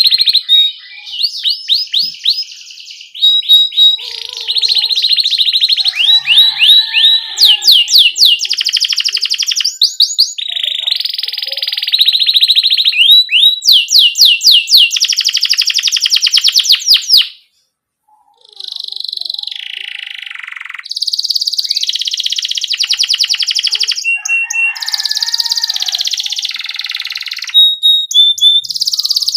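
Domestic canary singing loudly: long, rapid rolling trills broken by quick 'cuit cuit' chirps, high-pitched and nearly continuous, with a short break just past the middle.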